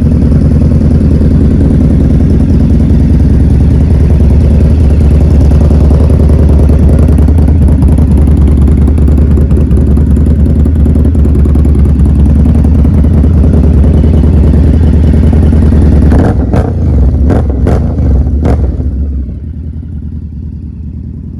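V-twin engine of a 2021 Indian Scout Bobber running through an aftermarket Freedom exhaust, loud and steady, cutting in abruptly. About sixteen seconds in there are a few short, sharp blips, then it settles to a quieter idle.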